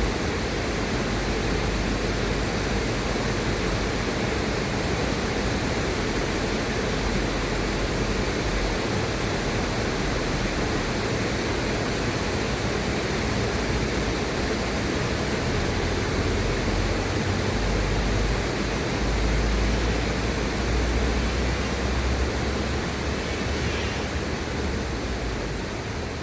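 River water rushing steadily, an even full hiss with a low rumble underneath, beginning to fade slightly near the end.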